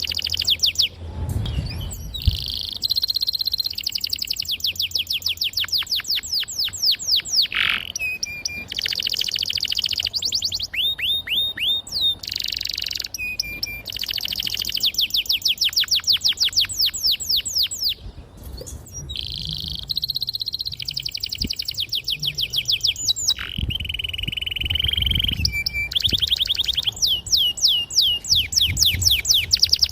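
Domestic canary singing long rolling song: runs of fast, evenly repeated high notes, broken by short pauses and changes of note.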